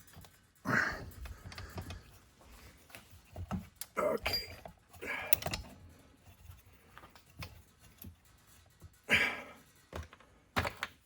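Scattered light clicks and knocks of small metal engine parts being handled as a 1980 Honda CR80 engine's crankcase is split with the transmission inside, with a few louder knocks.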